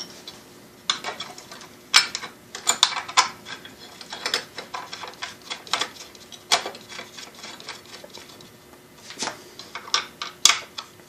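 Irregular metallic clicks and taps of a base plate and its fittings being handled and set onto a belt sander, a few sharp knocks standing out among the lighter ticks.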